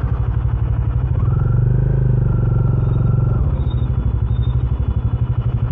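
A Bajaj Dominar 400's single-cylinder engine running through its stock exhaust at low revs, then dropping to an even, pulsing idle about three and a half seconds in.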